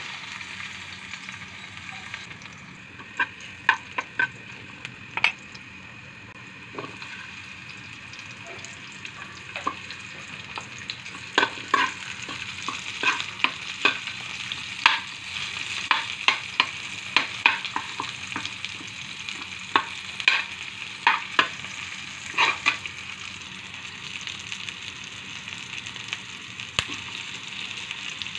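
Chopped garlic and onion sautéing in oil in a metal wok, with a steady sizzle. A spatula stirring them strikes and scrapes the pan in many sharp clacks, busiest through the middle.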